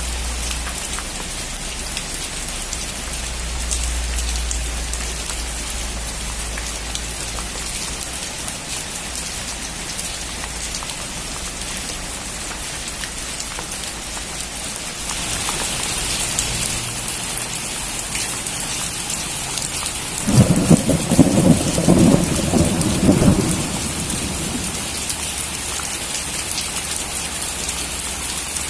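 Steady heavy rain, with a low rumble over the first few seconds. About halfway through the rain grows louder, and about twenty seconds in a close thunderclap, the loudest sound here, lasts some three seconds.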